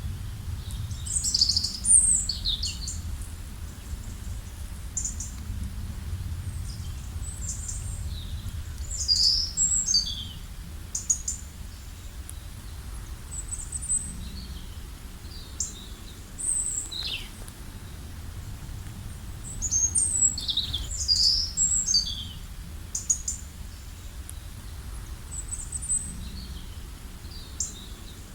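Wild birds chirping and singing, short high calls and trills that come in busier flurries about two seconds in, near nine seconds and around twenty seconds, over a steady low rumble.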